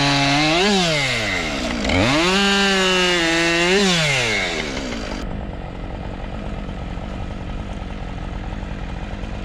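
Chainsaw engine revved up and held at high speed twice, dropping briefly between, then winding down about four and a half seconds in. After an abrupt cut it is followed by a fainter, steady low hum.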